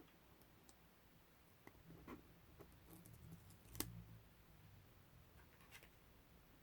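Faint, scattered clicks and short crackles of masking tape being picked at and peeled, with one sharper click a little after halfway.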